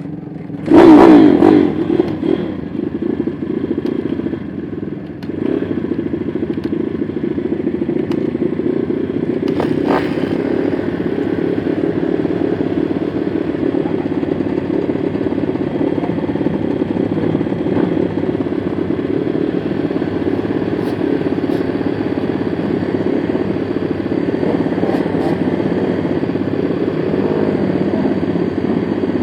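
Pit bike's small single-cylinder engine running on track, holding a fairly steady pitch, with a loud burst of clatter about a second in.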